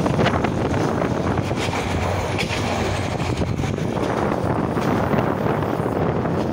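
Passenger train running along the track, heard from an open carriage window: a steady rumble and rattle with scattered clicks, mixed with wind buffeting the microphone.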